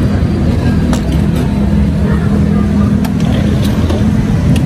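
Motorcycle engine running steadily at idle, with a few light clicks over it.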